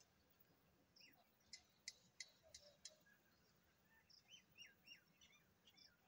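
Near silence with faint chirps of small birds, a run of short falling calls in the second half, and a few soft clicks before them.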